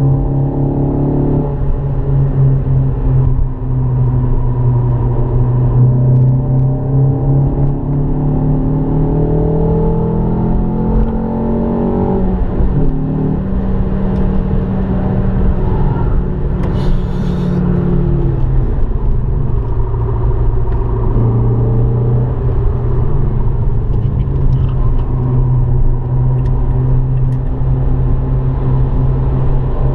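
In-cabin sound of a Renault Clio RS 172's 2.0-litre four-cylinder engine working hard on track, its note climbing in pitch under acceleration and dropping back where the throttle eases, over steady tyre and road rumble.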